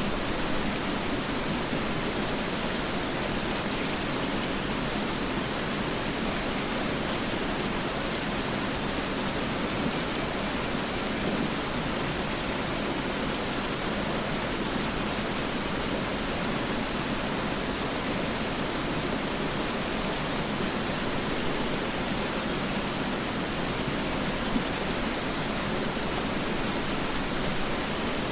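Mountain river rushing over rocks, a steady, unbroken wash of flowing water.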